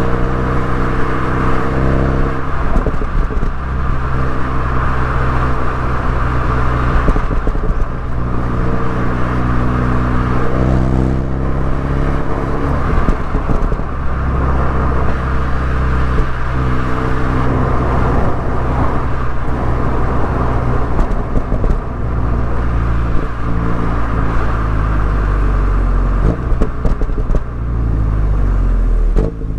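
Mini Cooper S engine and exhaust under way, the note holding steady and then shifting in pitch every few seconds over steady road and tyre noise; near the end the note dips and climbs again.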